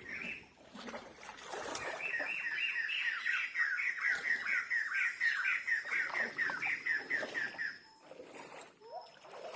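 A bird calling a fast run of short chirps, about four a second for some six seconds, with a faint steady high whine behind it.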